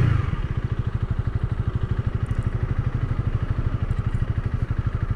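Honda Rebel 300's single-cylinder engine running at a steady idle, an even, rapid low putter with no revving.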